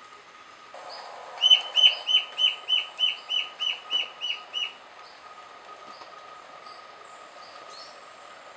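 A bird calling: a run of about a dozen short, clear, slightly falling notes at an even pace of three or four a second, lasting some three seconds and fading a little toward the end, over a faint steady high tone.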